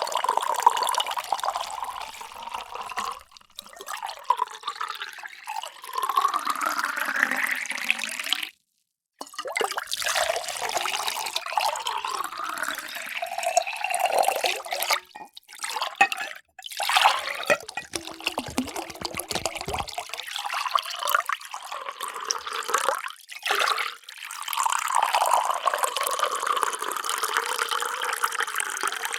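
Water pouring into drinking vessels, several short pours in a row, the pitch rising as each vessel fills. The sound cuts off abruptly a couple of times between pours.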